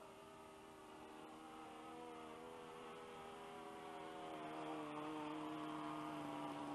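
Engine of a flying radio-control Seagull Skyraider model plane, a steady pitched drone that grows louder as it approaches and drops in pitch as it passes, about four to five seconds in.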